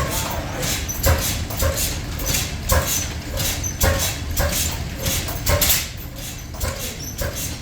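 Stationary steam engine running at a steady slow beat, just under two beats a second, driving workshop machinery with short squeaks among the beats.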